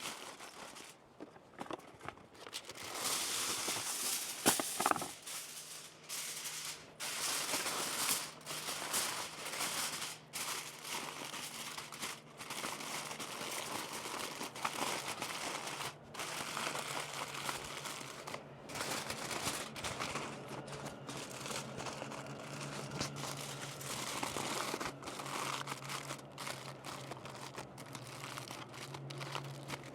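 Aluminium foil crinkling and rustling as it is handled, with irregular crackly bursts. A faint steady low hum runs underneath from a few seconds in.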